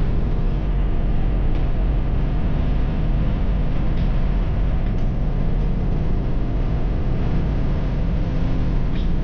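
Harley-Davidson motorcycle's V-twin engine running steadily under way, a low rumble mixed with wind noise.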